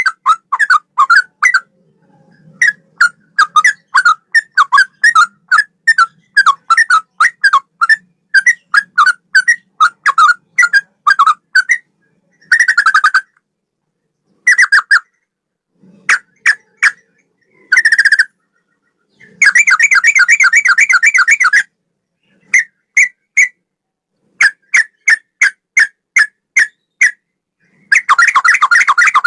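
Yellow-vented bulbul (trucukan) singing in a cucak-rowo-like style: long runs of short, quick whistled notes, broken by several dense trills, the longest about two seconds, around two-thirds of the way through and again near the end.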